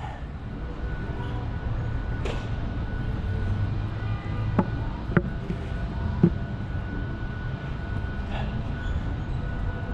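Steady low rumble of street traffic and wind, with a few sharp clicks around the middle.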